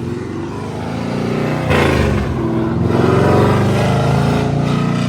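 An LS3 V8 car engine accelerating and revving, its pitch climbing. About two seconds in it jumps sharply louder, like a gear shift or a stab of throttle, and it eases off near the end.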